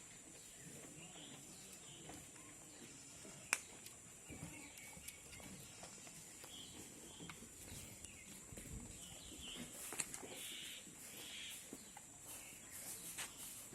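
Quiet farmyard ambience: faint scattered animal and bird calls over a steady high hiss, with two sharp clicks, one a few seconds in and one about ten seconds in.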